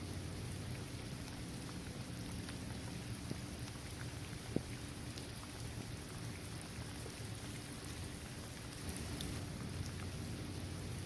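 Steady rain falling on a basketball court, trees and grass, with scattered ticks of single drops and one sharper tap about four and a half seconds in.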